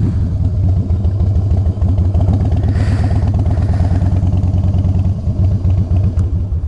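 Harley-Davidson V-twin motorcycle engine running at low revs with a steady, lumpy exhaust beat while the bike creeps along in low gear. The sound cuts off suddenly near the end.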